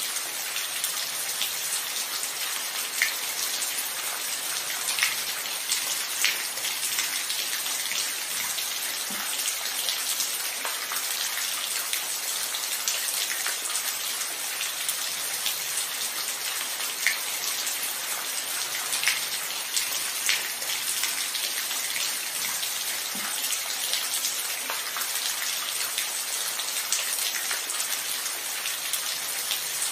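Steady rain falling, an even hiss with louder single drops tapping here and there.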